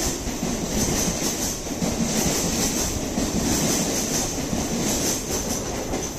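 Coimbatore Express passenger coaches rolling past at low speed. The steel wheels make a steady rumble on the rails, with faint repeated clacks and a high-pitched ringing above the rumble.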